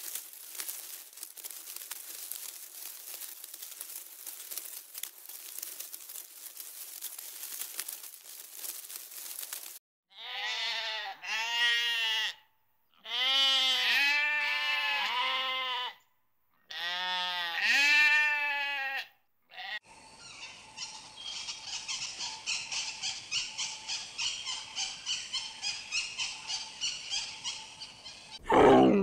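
Sheep bleating, about four long wavering calls in a row, after a steady hiss. Then helmeted guineafowl chatter in a quick rhythmic string, about three calls a second.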